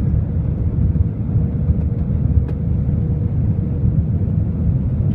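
Steady low rumble of airliner cabin noise, the engines and airflow heard from inside the passenger cabin, with a faint steady hum over it. A single short click about two and a half seconds in.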